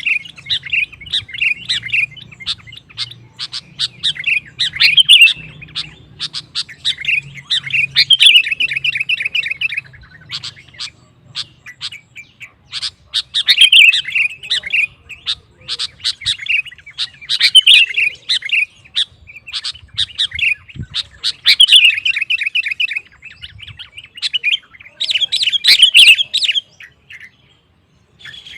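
Sooty-headed bulbul (kutilang) in full song: lively, bubbling phrases a second or two long, repeated about every four seconds.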